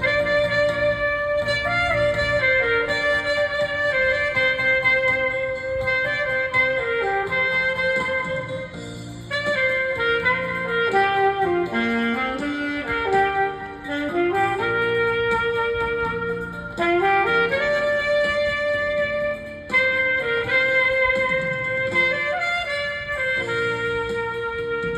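Saxophone playing a slow melody of long held notes, with short gaps between phrases.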